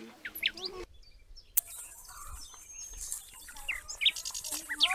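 Birds chirping outdoors: many short, quick chirps rising and falling in pitch. About a second and a half in, a steady high hiss comes in beneath them.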